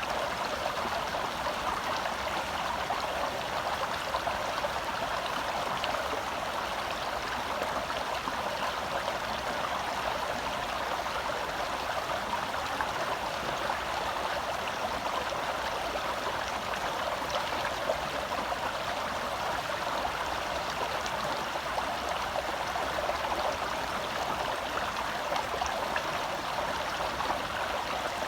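Shallow forest stream flowing and burbling over rocks close by, a steady rush of water with fine splashing detail.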